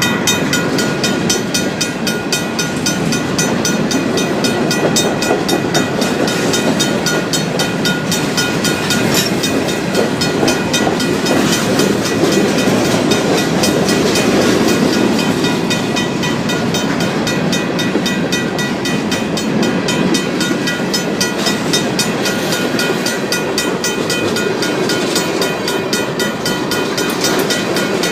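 Freight train cars rolling through a grade crossing, their wheels clattering steadily over the rails. Over this, the crossing signal's RACO mechanical bell rings continuously in rapid, even strokes.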